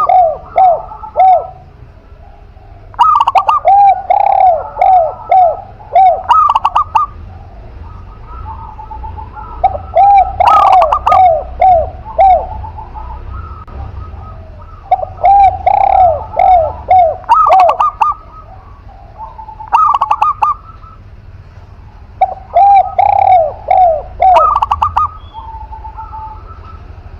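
Spotted dove and zebra dove cooing: loud phrases of quick, arched cooing notes, repeated every few seconds.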